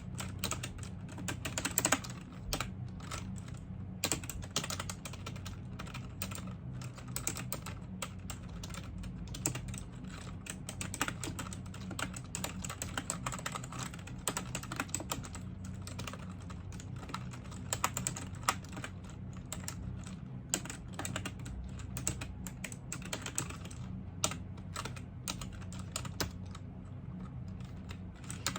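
Continuous typing on a computer keyboard, fast irregular key clicks with occasional louder strokes.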